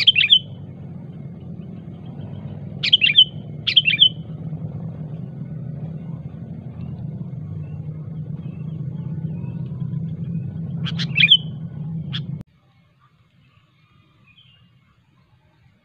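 Sooty-headed bulbul (kutilang) giving short, sharp, loud calls, singly and in quick pairs, about five in all, over a steady low rumble. The rumble and calls cut off abruptly about twelve seconds in, leaving only faint chirps.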